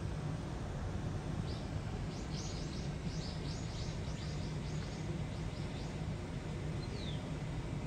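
A small bird chirping: a quick run of high, short chirps that starts about a second and a half in and lasts some four seconds, with one short falling note near the end. Under it runs a steady low background hum.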